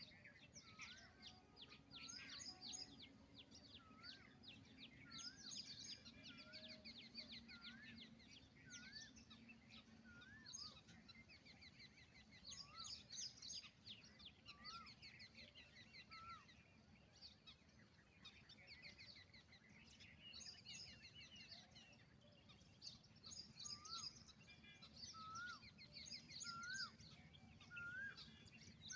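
Faint outdoor chorus of many birds chirping, with one bird repeating a clear up-and-down whistled note about once a second, in a run at the start and another near the end.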